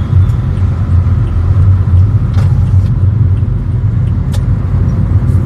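Steady low road rumble inside a moving car, engine and tyre noise droning evenly, with a few light clicks about two and four seconds in.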